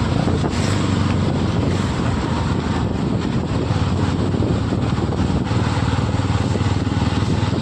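Bajaj Pulsar NS motorcycle running steadily while being ridden.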